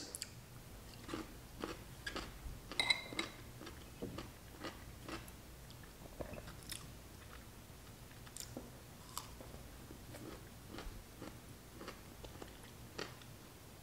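A man chewing and biting into dill pickles: faint, scattered crunches and wet clicks of chewing. There is one light ringing clink about three seconds in.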